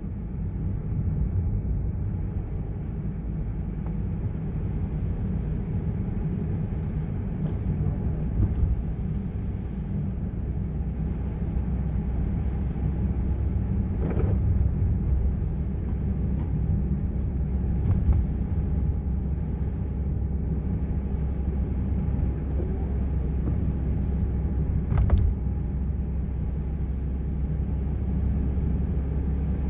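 Car driving: a steady low rumble of engine and tyres on the road, with a few brief knocks scattered through.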